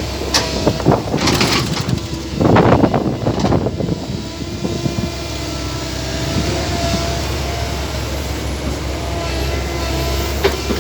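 A motor running steadily with a low drone, with a run of clattering knocks and a louder rattling burst in the first few seconds.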